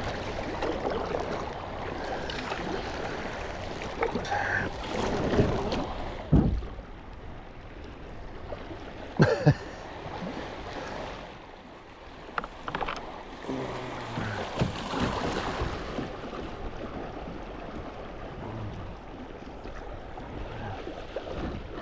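Water rippling and splashing around a small boat drifting downstream, with wind on the microphone and a few knocks against the hull, the loudest about nine seconds in.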